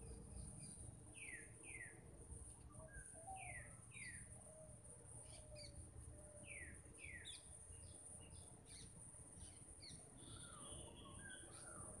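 Faint birdsong: one bird repeats a pair of quick downward-slurred whistles three times, about every two and a half seconds, with short high chirps from other birds in between.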